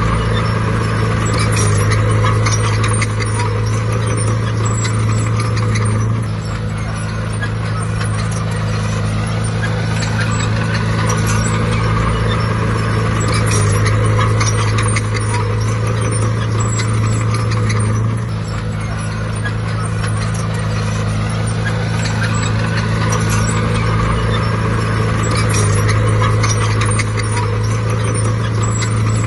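Heavy diesel engine of a bulldozer running under load, its drone swelling and easing again about every twelve seconds as it works, with steady clanking from the machinery on top.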